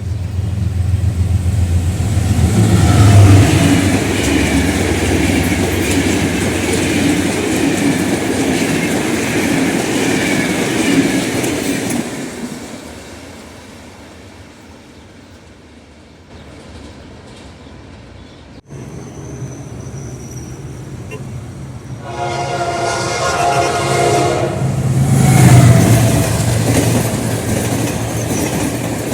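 General Electric diesel locomotive hauling a passenger train past, its engine and wheels on the rails loud at first, then fading away. After a cut, the locomotive's horn sounds one long blast and the train rolls past with clickety-clack of the wheels.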